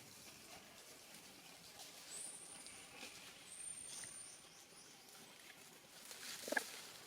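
Faint animal sounds: a thin, very high whistle lasting about two and a half seconds, then one short, sharp call rising in pitch near the end.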